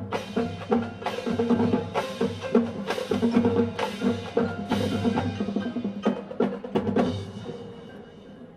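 Marching band playing a loud passage, sustained brass-range tones under frequent sharp percussion hits, easing into a softer, quieter passage about seven seconds in.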